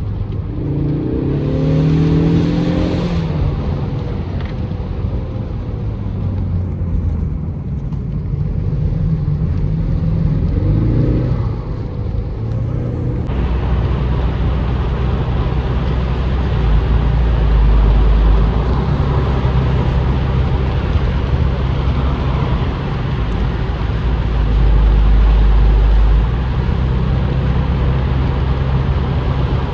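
The turbocharged 2.3-litre four-cylinder engine of a 2025 Ford Mustang EcoBoost convertible accelerating, its revs rising twice in the first dozen seconds. From about thirteen seconds in, wind rushes and buffets loudly over the open-top car at speed.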